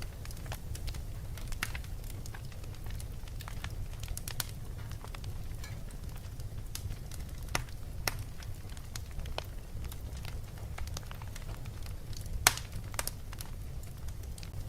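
Fireplace crackling: scattered sharp pops and snaps over a steady low rumble, with one louder pop near the end.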